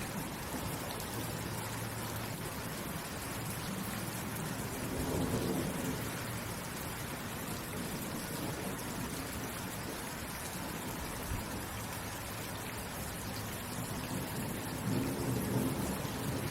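Steady rain falling, with two low rumbles of thunder swelling up about five seconds in and again near the end.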